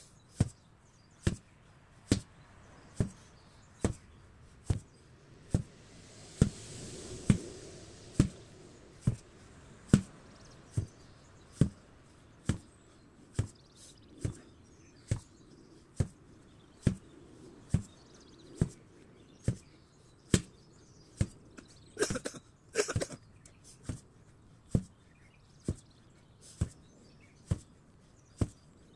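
8 kg sledgehammer striking in a steady, tireless rhythm, a little more than one blow a second. A brief burst of crackling noise comes about two-thirds of the way through.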